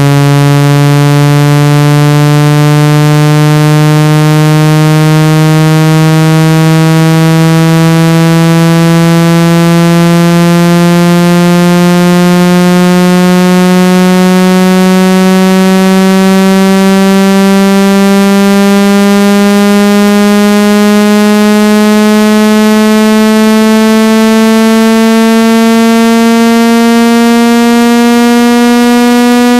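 Synthetic water-ejection tone for a phone speaker: a loud, buzzy, harmonic-rich tone gliding slowly and steadily upward in pitch, from a low buzz to a somewhat higher one. It is meant to vibrate trapped water out of the speaker grille.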